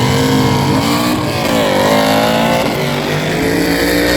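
Drag-racing car engine revving loudly, its pitch rising, dipping once and climbing again.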